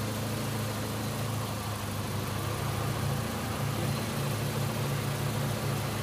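Honda Civic engine idling steadily under the load of its running air-conditioning compressor.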